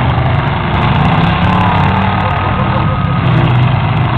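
Engines of demolition derby cars running loud and steady as they drive around the dirt arena, with crowd chatter underneath.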